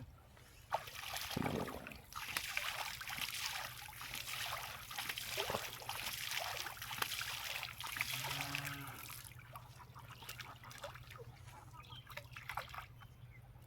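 Water trickling and splashing, with many small drips and spatters; it is loudest for about the first nine seconds, then dies down.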